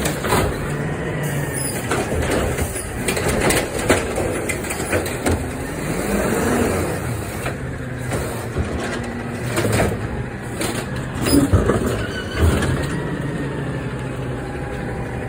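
Garbage truck engine running steadily, with a series of sharp knocks and clanks; the loudest knock comes about eleven and a half seconds in.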